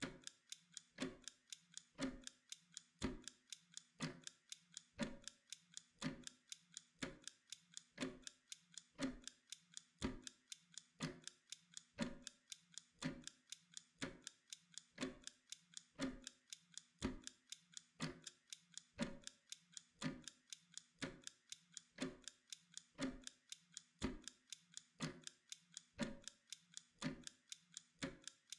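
Mechanical kitchen timer ticking steadily, about two ticks a second, alternating stronger and weaker ticks.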